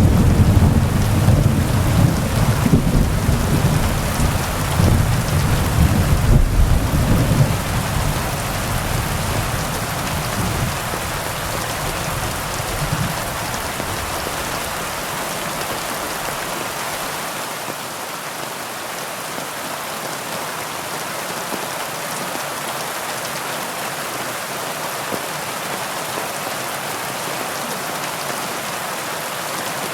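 Heavy rain falling steadily, with a low rumble of thunder over the first several seconds that dies away about halfway through, leaving the even hiss of the rain.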